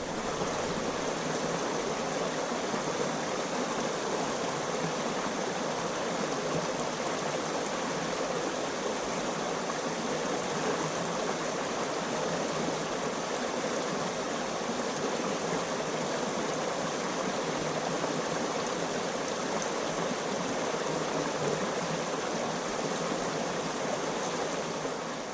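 Flowing stream water running steadily.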